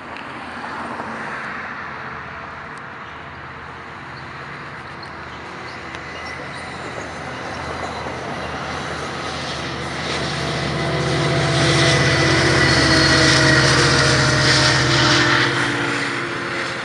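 AMT commuter train approaching and passing, its diesel locomotive's engine hum and the rail noise growing louder to a peak about two thirds of the way in, then falling away near the end.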